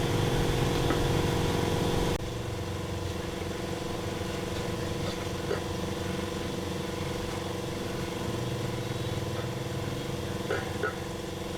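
A motor or engine running steadily with a constant hum. The sound steps down abruptly about two seconds in, and a few light clicks of handling are heard near the middle and the end.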